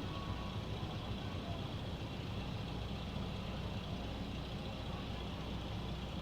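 Steady low mechanical rumble with a faint high whine on top.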